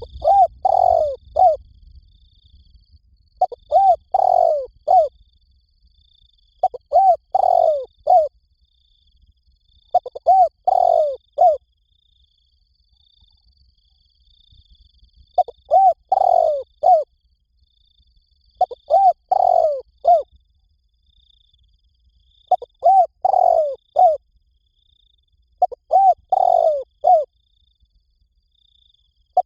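Spotted dove cooing: a repeated phrase of three to four coos, each phrase about a second and a half long, coming about every three seconds.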